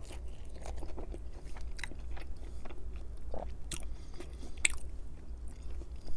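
Close-miked chewing of a soft pierogi, with a bite at the start and irregular wet mouth clicks and smacks, over a low steady hum.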